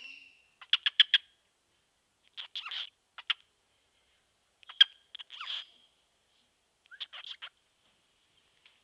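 Cockatiel chattering in four short bursts of quick chirps and clicks, the first burst a rapid run of four sharp chirps, the sort of mutterings a cockatiel makes while trying to talk.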